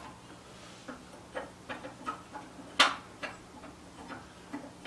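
Wood stove ticking and crackling: irregular light clicks, about a dozen, with one louder click about three seconds in.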